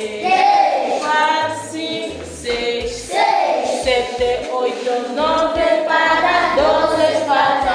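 Group of schoolchildren singing together as a class, in short sung phrases with brief breaks between them.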